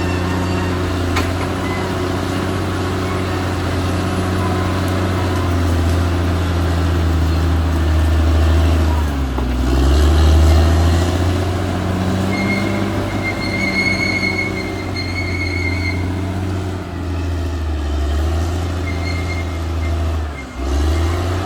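Caterpillar D6R XL bulldozer's diesel engine running steadily under load, its pitch sagging and recovering about nine seconds in and again near the end. A thin high squeal sounds for a few seconds in the middle.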